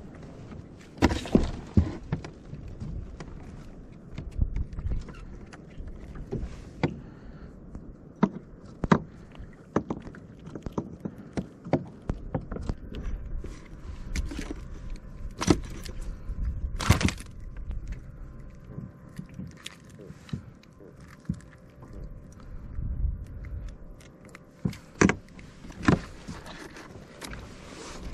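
Irregular knocks, thunks and clatter of fishing gear being handled on a plastic fishing kayak, over a low rumble of wind and water.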